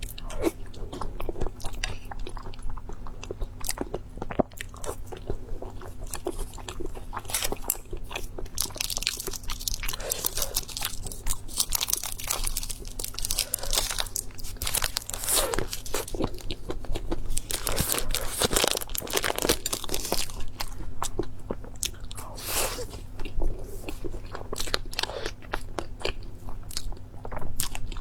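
Close-miked eating: a person biting into crunchy food and chewing, with many irregular crunches and wet mouth sounds.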